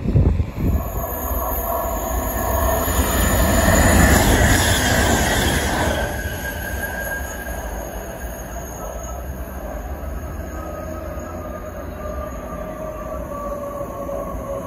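Electric passenger train on the rails, with squealing high tones from wheels and rails over a rumble. The sound swells to its loudest about four seconds in and drops off sharply around six seconds, then settles into a steadier rumble with faint gliding squeals.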